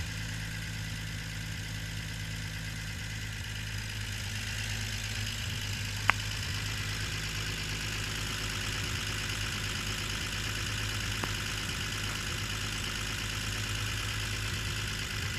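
A 1952 Chevrolet pickup's engine idling steadily, with a sharp click about six seconds in.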